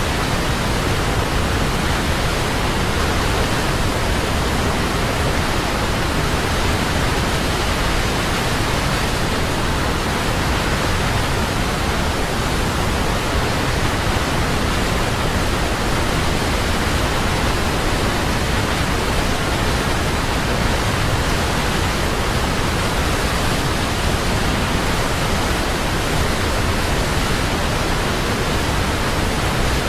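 Large waterfall: water crashing down in a steady, unbroken rush.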